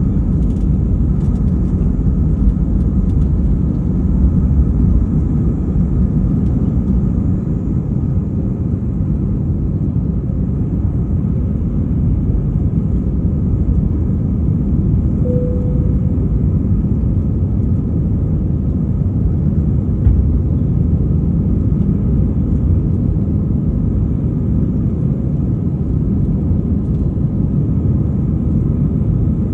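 Jet airliner's engines and rolling noise: a steady low rumble. A short single tone sounds once about halfway through.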